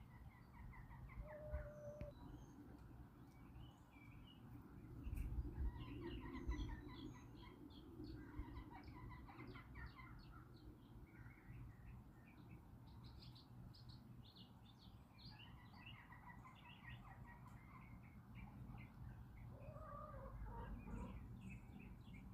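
Faint outdoor birdsong: many small birds chirping and twittering, with a backyard hen giving a short, low call twice, once about a second and a half in and once near the end, over a low rumble that swells around five seconds in.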